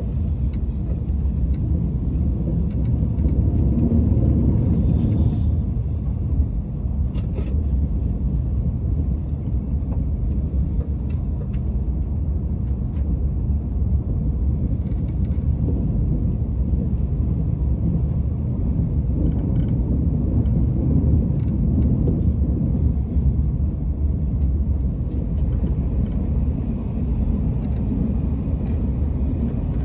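A TGV train running along the line, heard from inside the passenger carriage as a steady low rumble.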